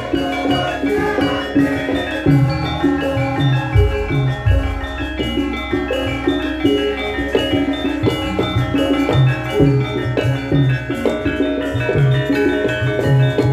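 Javanese gamelan playing a lengger gending: a steady run of struck bronze metallophone notes over low kendang drum strokes, with a deep gong stroke about four seconds in.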